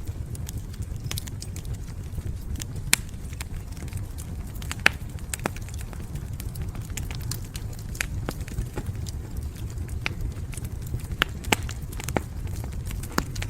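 Fire burning in a fireplace, crackling with sharp irregular pops over a steady low rumble.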